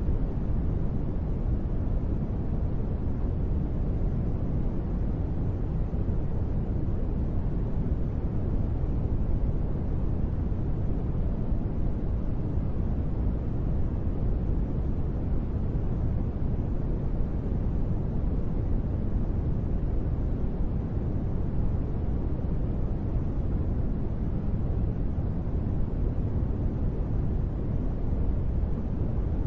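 Steady, deep rushing noise for sleep, heaviest in the low end, with no separate drops or changes.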